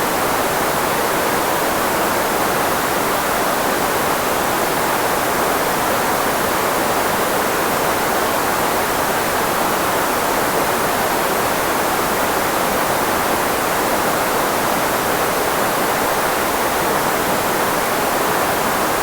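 Steady filtered white noise, shaped to mask the frequencies of human speech: an even hiss strongest in the middle range, with little low end, that never changes.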